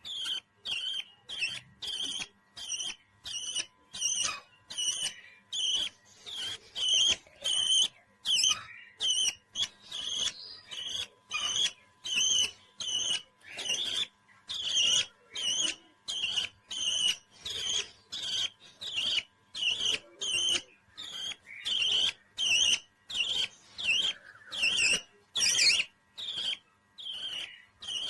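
Parrot chirping in a steady run of short, high calls, about two a second.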